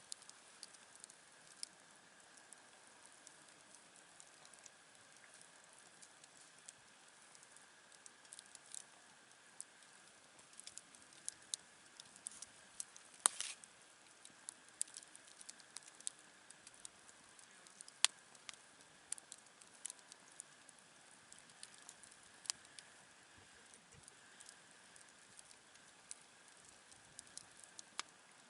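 Wood campfire crackling softly, with scattered irregular pops and snaps. Two louder, sharper pops come about thirteen and eighteen seconds in.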